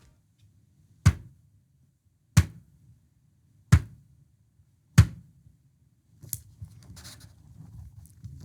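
Evans HD Dry two-ply tom drumhead, off any drum, tapped four times about a second and a quarter apart; each tap is a short, dull thud that dies away quickly, the sign of a very dry head with little sustain. Fainter rustles and light knocks of the head being handled follow near the end.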